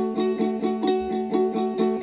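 Plucked string instrument music: a quick, even run of picked notes, about five a second, over a steady low held note.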